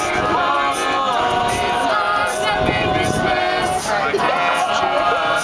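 Mixed-voice a cappella group singing, several voices in harmony carrying a sustained chord with vocal percussion.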